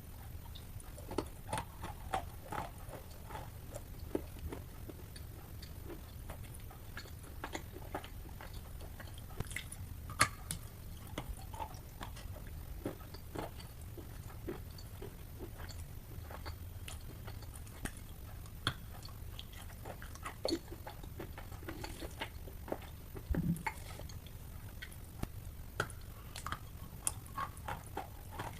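A person biting and chewing wet chalk close to the microphone: soft, irregular crunches with a louder bite about ten seconds in and a quick run of crunches around twenty-three seconds.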